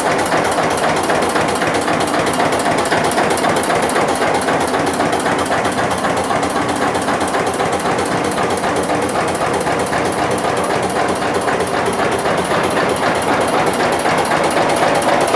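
A 1981 Eicher tractor's diesel engine running steadily, with a fast, even knocking beat.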